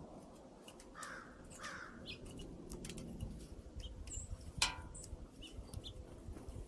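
Crows cawing at a bird feeder: two harsh calls about a second in, and a single loud caw past the middle, with short high chirps from small birds in between.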